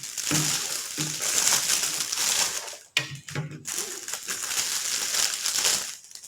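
Plastic toy packaging crinkling and crumpling as it is handled and torn open, in two long stretches with a brief break about three seconds in.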